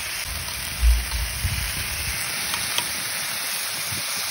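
Eel pieces sizzling in hot oil in a wide wok, turned over with tongs, with a steady frying hiss. A dull thump about a second in.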